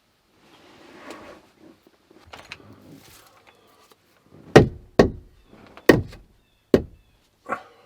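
A tool striking wood: four sharp, hard knocks in the second half, unevenly spaced, then a softer fifth. Before them come a few seconds of light rustling and handling.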